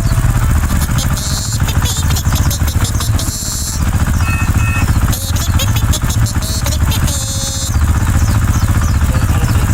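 Small engine running steadily with a fast, even low throb, with bursts of clattering and two short beeps about halfway through.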